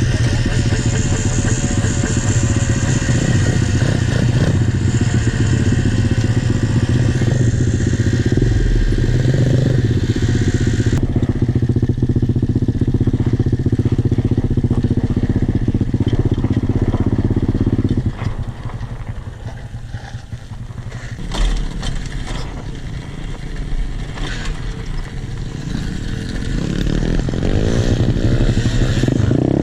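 Pit bike engine running under throttle. About two-thirds of the way through it eases off and goes quieter, then builds again near the end.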